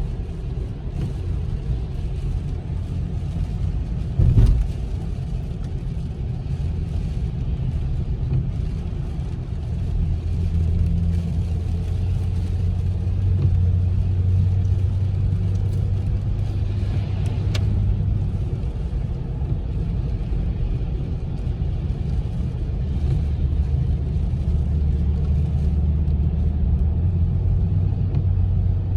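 Steady engine hum and tyre rumble inside a moving car's cabin, with one short thump about four seconds in.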